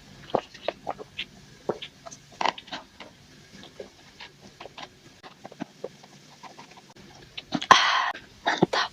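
Close-miked ASMR eating mouth sounds: irregular small wet clicks and smacks, with a short noisy burst about eight seconds in and a few sharper smacks just after.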